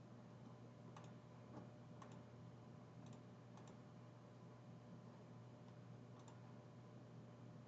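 Near silence: a low steady hum with faint sharp clicks about once a second.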